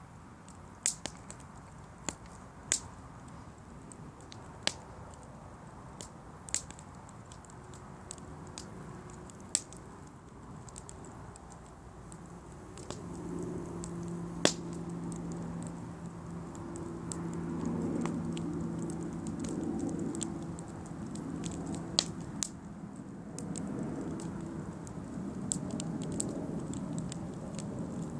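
Wooden fruit crate burning in a campfire, crackling with scattered sharp pops. A low steady hum joins about halfway through.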